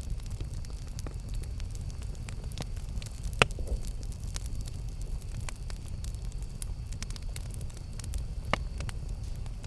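Campfire burning with a steady low rumble and scattered sharp crackles and pops of burning wood, the loudest pop about three and a half seconds in and another near the end.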